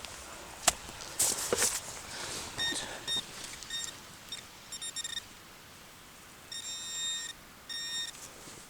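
Metal detector beeping over a buried target, a piece of copper: a high electronic tone in short, broken beeps, then two longer beeps near the end. Before the beeps come a sharp knock and some scuffing.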